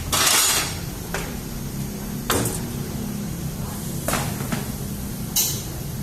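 Tyre-changing work noise: several sharp clanks and short noisy bursts, the loudest right at the start, over a steady low hum.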